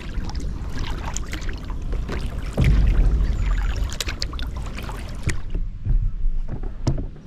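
Kayak paddling on a river: irregular paddle splashes and water slapping the hull, with wind rumbling on the microphone, strongest about a third of the way in.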